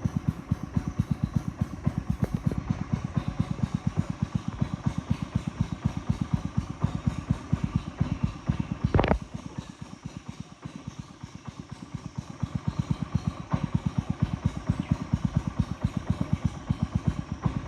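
A small boat's engine running with a fast, even run of low thuds, several a second. A sharp knock comes about nine seconds in, and the engine runs softer for a few seconds after it before picking back up.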